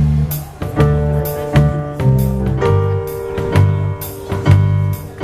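A band playing an instrumental passage without vocals: a drum kit with regular cymbal and drum hits over a bass line that changes note about every half second, with sustained chords above.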